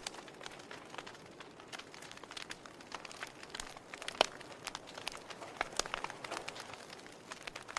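Wood fire burning in a fireplace, crackling with irregular snaps and pops over a soft hiss, one sharper pop about four seconds in.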